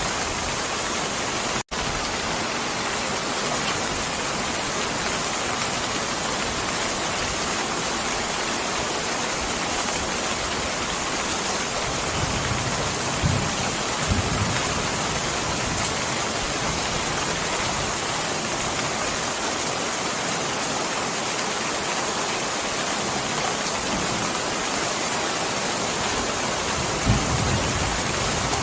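Steady rain falling, an even hiss that cuts out for an instant about two seconds in. A few soft low thumps come through it about halfway through and again near the end.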